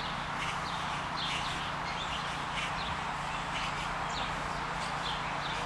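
Backyard birds chirping, many short high chirps a couple of times a second, over a steady rushing background noise.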